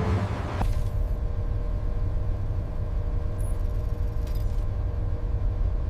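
Low, steady mechanical rumble with a faint steady hum, and a burst of hiss that cuts off sharply about half a second in; a few faint clicks near the end.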